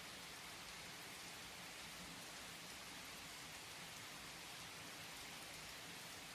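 Steady rain falling, a quiet, even hiss of drops with no thunder.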